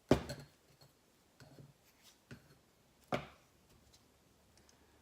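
Two sharp knocks about three seconds apart, each with a brief ring, and a few fainter clicks between them: hard objects being handled and set down on a table.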